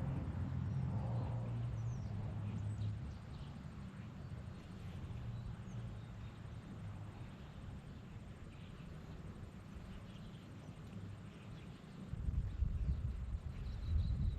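Outdoor ambience: a low, uneven rumble on the microphone that swells near the start and again near the end, with faint bird chirps.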